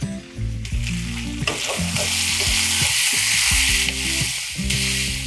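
Sliced potatoes and bacon sizzling in a hot nonstick skillet while a wooden spoon stirs and turns them. The sizzle swells about one and a half seconds in as the slices are turned over. Soft background music plays underneath.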